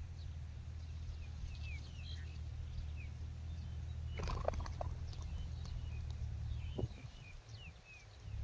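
Wind rumbling on the microphone, with small birds chirping faintly and repeatedly in short downward chirps. A few brief knocks or rustles come about four seconds in and again near seven seconds.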